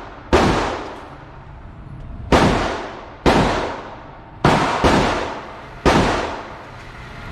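Six 9mm pistol shots at an uneven pace, two of them about a third of a second apart, each followed by a tail of echo that dies away over about a second.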